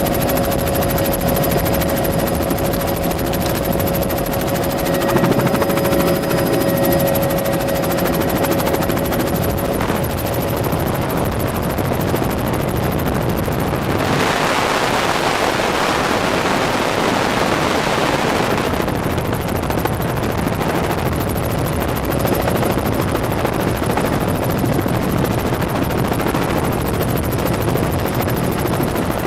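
Helicopter engine and rotor running steadily in flight, a continuous drone with a steady tone in the first half. For about five seconds midway a louder rushing noise rises over it, then settles back.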